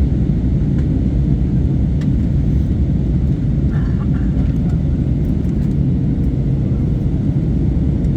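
Steady drone of an airliner's jet engines and rushing air heard inside the passenger cabin, during the descent into Maui. The noise is heaviest in the low range, with a faint steady hum above it.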